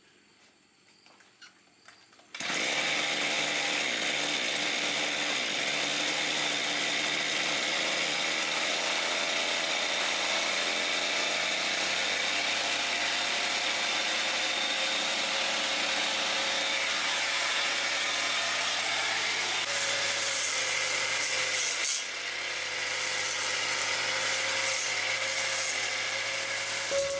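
A power tool's motor switches on suddenly about two seconds in and runs steadily at full speed with a high whine, briefly easing once near the end.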